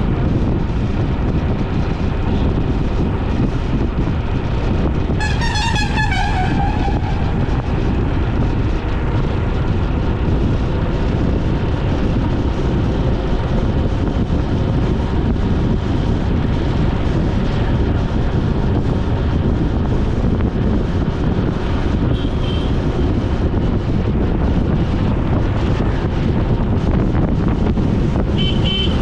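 Steady wind rushing over a moving action camera's microphone, with road and traffic noise. A vehicle horn sounds briefly with a wavering pitch about five seconds in.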